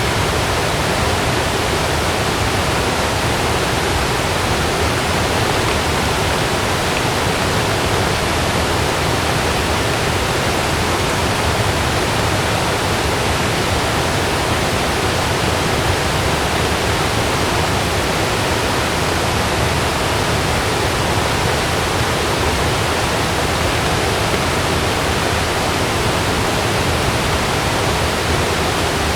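Steady heavy rain falling on a camping tent, an even wash of noise with no thunder in this stretch.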